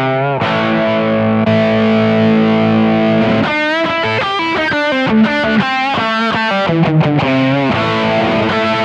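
Distorted electric guitar: a chord is held for about three seconds, then lead lines with bends and vibrato follow.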